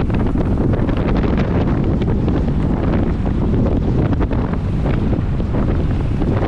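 Steady, loud wind buffeting the microphone of a camera riding on a racing bicycle at speed, with faint light clicks and rattles over it.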